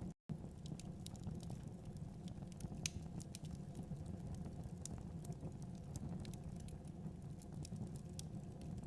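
Wood fire crackling: scattered sharp pops and snaps over a steady low rumble of the flames, with one louder pop about three seconds in. The sound drops out for a split second near the start.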